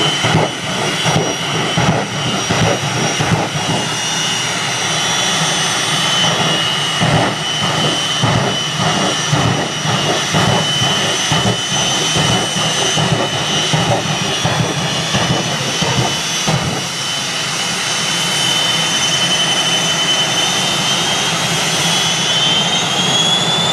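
Jet engine of a jet-powered drag-racing vehicle running loud and steady: a high turbine whine over a rough, crackling rumble. Near the end the whine rises in pitch as the engine spools up.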